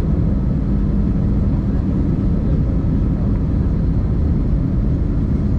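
Airbus A320-200 airliner heard from inside the cabin: a steady low rumble of engines and airflow with a constant hum.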